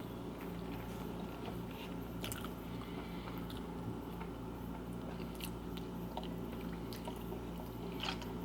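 A person chewing a mouthful of bacon BLT sandwich, with scattered small crunching clicks, over a steady low hum.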